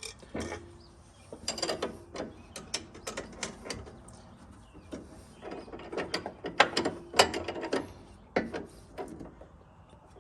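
Hand ratchet wrench clicking in repeated short strokes, tightening the nut on a sway bar end link.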